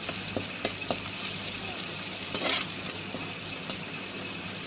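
Sliced onions and ginger-garlic paste sizzling in hot oil in a metal kadhai, a steady hiss, while a spatula stirs and scrapes against the pan with several sharp clicks.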